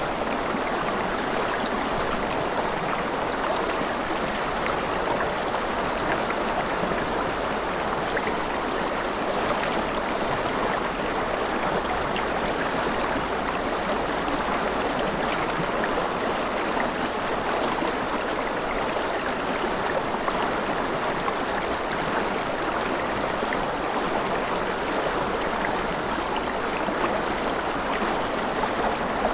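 River water flowing and splashing, a steady babbling rush with small gurgles and splashes throughout.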